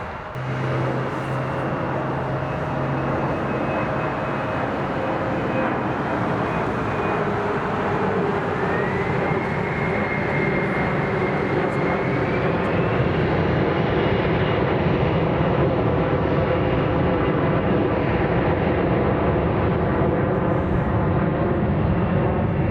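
Jet airliner engines, loud and growing steadily louder, with a whining tone that rises in pitch about a third of the way in.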